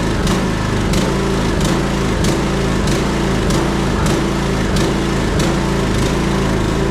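John Deere lawn tractor's engine running steadily just after a reluctant cold start in freezing weather, warming up, with a regular pulse about every two-thirds of a second.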